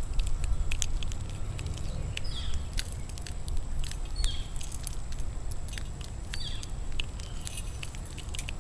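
Small birds at a feeder: a short falling chirp repeated about every two seconds, four times, over many quick taps and clicks from beaks and feet on the feeder, with a low rumble underneath.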